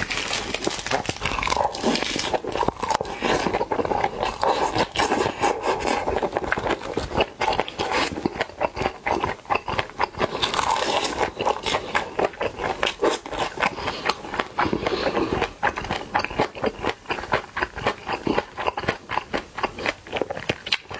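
Close-miked eating sounds: a person chewing and slurping mouthfuls of Korean bibimbap, with wet smacking mouth noises and a dense run of small clicks and crackles.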